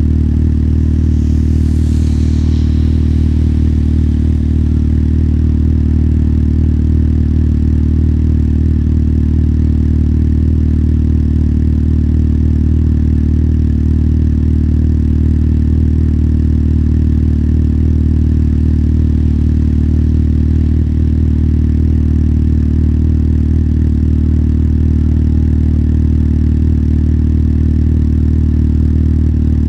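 Motorcycle engine idling at one steady pitch, with a brief faint high squeal about two seconds in.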